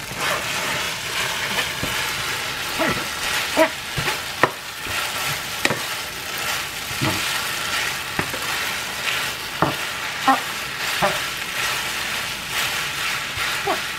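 Rice noodles and beef stir-frying in a frying pan with a steady sizzle. A wooden spatula stirs them, scraping and knocking against the pan in irregular strokes.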